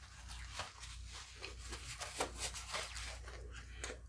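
Close-miked chewing of a mouthful of halo-halo with shaved ice: a run of small crunches and wet mouth clicks, thickest in the middle.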